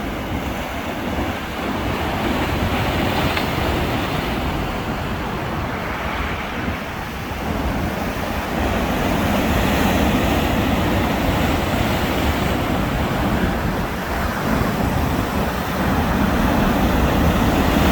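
Sea waves breaking and washing up a beach, a continuous surf hiss that swells and eases every few seconds, with a low rumble of wind on the microphone.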